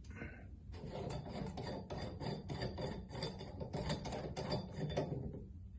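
Channel-lock pliers gripping and unscrewing the bushing off a Delta bathtub faucet valve: a rasping, grating scrape made of quick repeated clicks that starts about a second in and stops shortly before the end.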